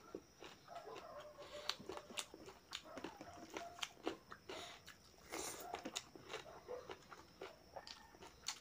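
Close-miked eating: wet chewing and lip smacking over mouthfuls of rice and mutton curry, with sharp crunches of crisp papad, in quick irregular clicks.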